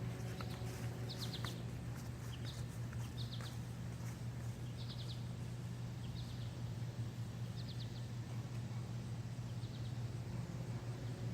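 A bird chirping in short quick runs of a few notes, roughly once a second, over a steady low hum.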